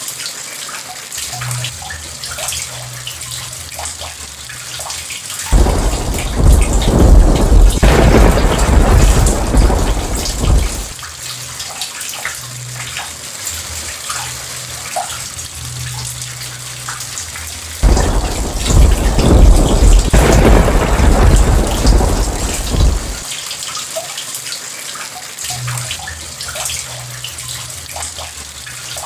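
Steady heavy rain falling, with two long rolls of thunder. Each roll breaks in suddenly, rumbles low and loud for about five seconds, and fades back into the rain: the first comes a few seconds in, the second a little past the middle.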